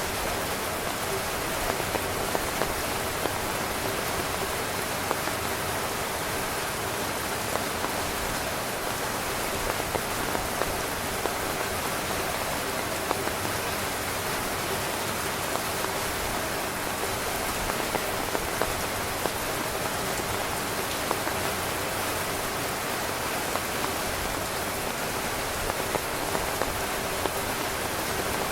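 Steady rain falling on a tent, a dense even hiss with scattered sharper drop taps.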